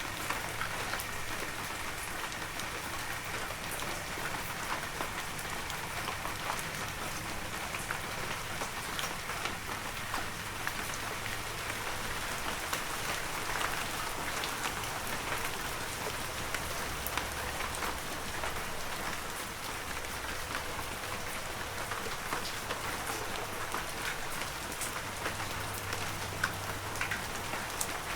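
Heavy rain falling steadily, a dense patter of drops hitting surfaces, with a faint low rumble underneath.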